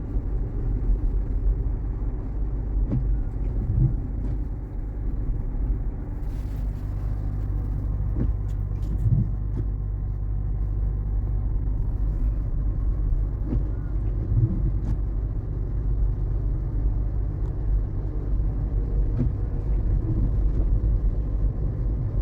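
Road noise inside a Waymo robotaxi's cabin as it drives through the city: a steady low rumble, with a brief hiss about six seconds in.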